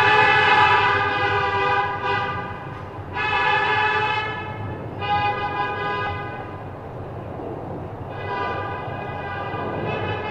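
Train horn sounding four long blasts, each a chord of several notes, over a low rumble.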